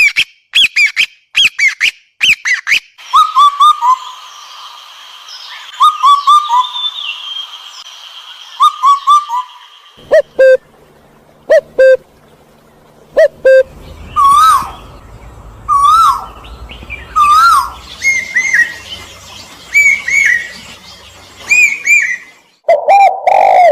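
A run of loud whistled bird calls: short rising and falling chirps and trills, in several different call patterns that switch abruptly every few seconds.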